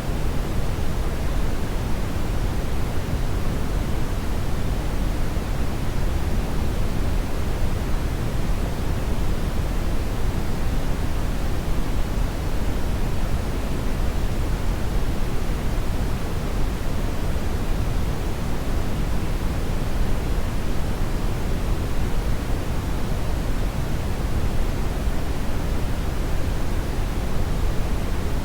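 Hair dryer running continuously: a steady, even rush of air noise, strongest in the low end, with no change in level or pitch.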